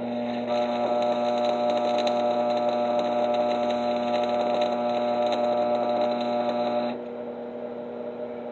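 Stick-welding arc crackling as a 3/32-inch 7018 electrode burns a tack weld at about 85 amps, over a steady electrical hum. The arc catches about half a second in and breaks off suddenly about seven seconds in.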